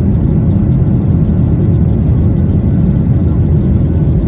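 Airliner's jet engines running at takeoff power, heard from inside the passenger cabin as a loud, steady rumble.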